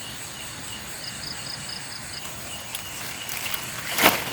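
Night insects chirping steadily, with a short run of quick, evenly spaced high chirps about a second in. Near the end come several rustling crunches, the loudest about four seconds in.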